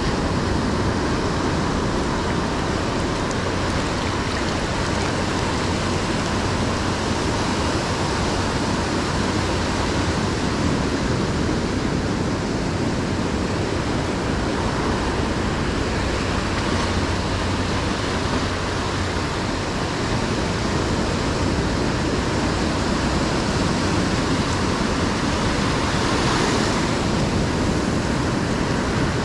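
Ocean surf breaking on a beach, a steady rush of waves, with one wash swelling louder near the end.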